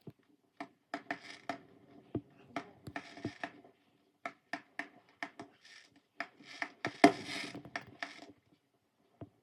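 A run of irregular sharp clicks and knocks, a few every second, with a louder crackling burst about seven seconds in.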